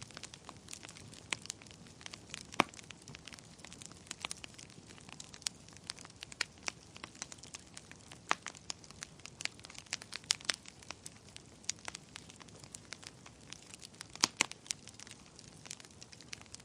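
Wood fire burning in a fireplace: a steady soft hiss with constant irregular crackling and a few sharper pops.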